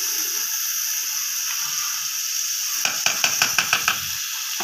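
Chopped vegetables sizzling in hot oil in an aluminium pot on a gas stove, a steady hiss. About three seconds in comes a quick run of about seven sharp taps.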